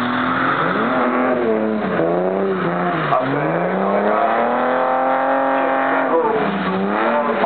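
A BMW straight-six engine revving hard while the car drifts on a wet track. Its pitch swings up and down with the throttle, dipping sharply about three seconds in, then climbing and holding high for a couple of seconds before dropping again.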